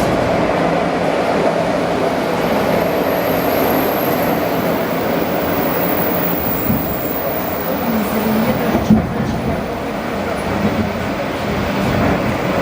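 ED4M electric train running on the rails, heard on board: a steady rumble of wheels and running gear, with a sharper knock about nine seconds in.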